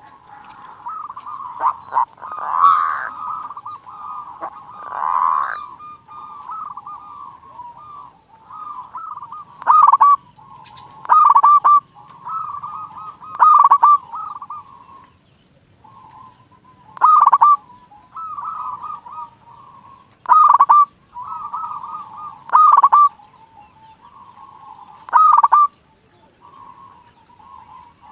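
Zebra dove (perkutut) cooing: rapid, rolling trills with a louder, clipped phrase every few seconds.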